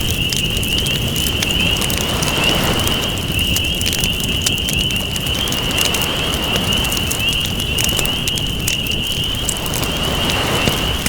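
Campfire crackling with frequent sharp pops over waves washing in, the surf swelling every few seconds. A steady high trill sits behind both.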